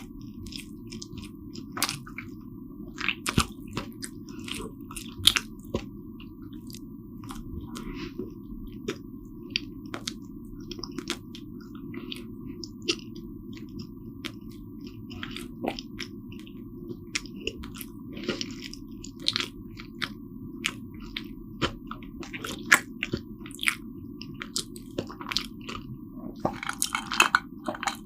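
Close-miked chewing of soft Korean steamed buns (hoppang): irregular wet mouth clicks and smacks, a few a second, over a steady low background hum, with a denser stretch of chewing near the end.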